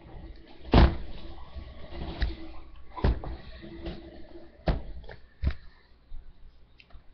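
Handling noise: several sharp knocks and clunks of objects being picked up and set down, the loudest about a second in, with faint shuffling between them.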